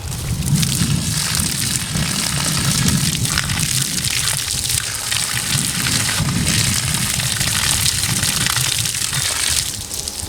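Water pouring and splashing into a PTO roller pump's input pipe as the pump is primed, a steady gush that eases off shortly before the end.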